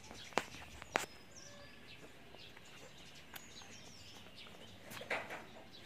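Faint bird chirps, scattered short calls, over quiet outdoor background, with two sharp clicks near the start.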